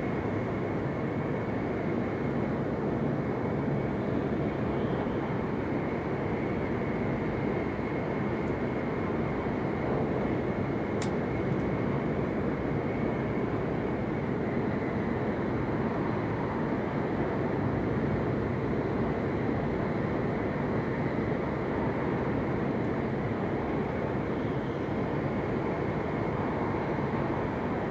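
Steady running noise inside the passenger cabin of a JR East E7 series Shinkansen: a dense, even rumble, with a faint high steady tone over it and a single short tick about eleven seconds in.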